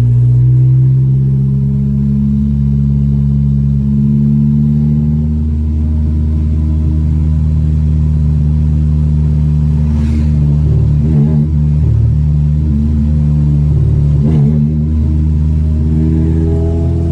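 Car engine running at a steady pitch while driving, then rising in pitch near the end as it accelerates.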